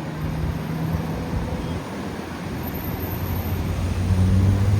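A motor vehicle's engine running close by over street noise, its low hum growing louder near the end.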